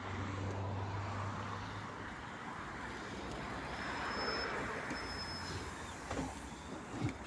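LiAZ city bus running, heard from inside the cabin: steady engine hum and road noise, with a couple of short knocks near the end.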